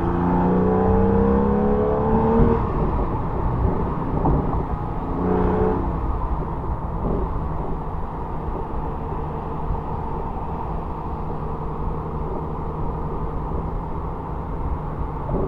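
Porsche 997 Carrera's 3.6-litre flat-six exhaust, heard close up from outside the car, rising in pitch under acceleration and breaking off about two and a half seconds in for a gear change. It pulls up again briefly around five seconds in, then settles to a steadier drone mixed with road and wind noise.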